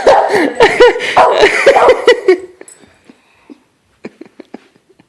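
A dog barking fast and hard in a rapid string of alarm barks at a delivery at the door, breaking off about two and a half seconds in. A few faint taps follow.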